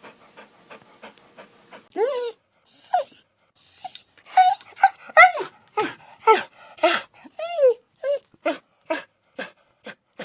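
A dog panting quickly and faintly, then from about two seconds in a run of short, loud yelps and whines, each falling in pitch, about two a second.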